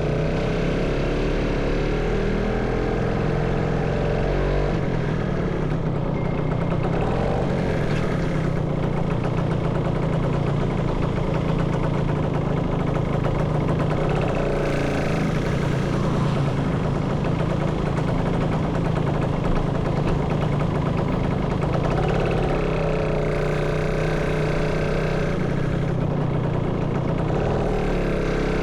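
Motorcycle engine running while riding, its pitch rising and falling a few times with the throttle, over a steady rush of road and wind noise.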